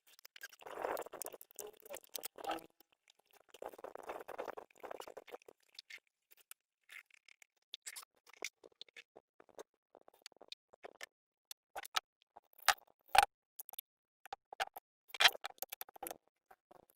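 Hand work on engine parts and tools: two spells of scraping in the first few seconds, then scattered clicks and a few sharper knocks.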